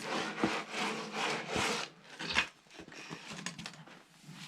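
Quick scraping strokes, about three a second, as frozen dirt is cleaned out of a steel dozer blade with a hand tool, then one loud knock about halfway in and a few light clicks.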